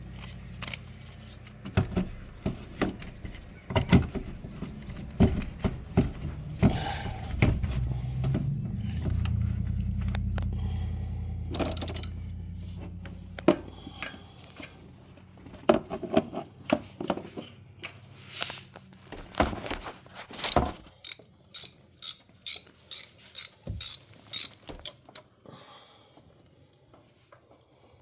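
Hand ratchet clicking in strokes as spark plugs are backed out of a 5.7 Hemi's cylinder head, with a steady run of quick clicks in the second half. A low hum lies under the first half.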